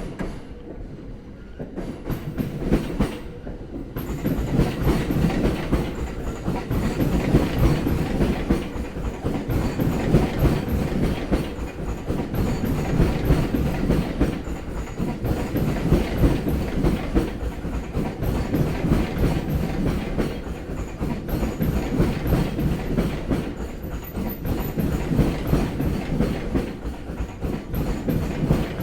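Electric commuter train's wheels passing over rail joints in a loud, continuous clickety-clack of rapid knocks. It builds up over the first few seconds and keeps going to the end.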